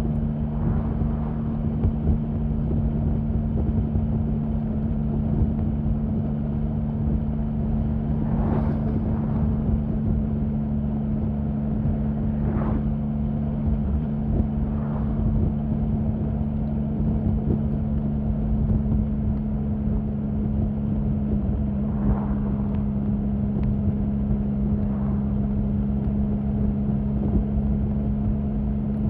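Triumph Sprint 1050's inline three-cylinder engine running steadily at an unchanging engine speed, with a few short swells of noise over it.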